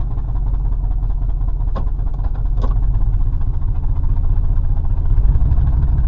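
Pickup truck's engine and road noise heard from inside the cab while driving, a steady low rumble that grows a little louder partway through. Two short clicks come about two seconds in, less than a second apart.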